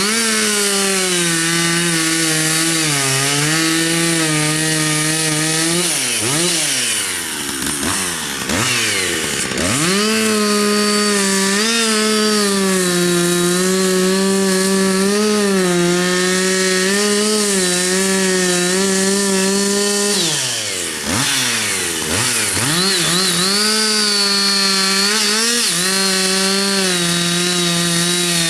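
Chainsaw running near full throttle while cutting wood, its pitch sagging and wavering under load. Twice the throttle is let off, and the engine falls toward idle before revving back up.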